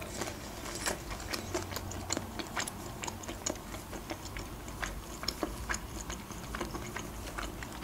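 Quiet, close-up chewing of boiled shrimp: irregular small wet mouth clicks, several a second.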